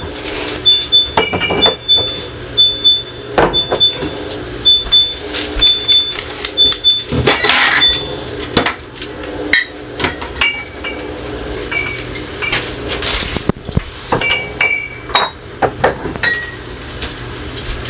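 Dishes, jars and food containers being handled, knocking and clinking against each other and hard surfaces in a string of irregular sharp strikes, some ringing briefly with a high tone.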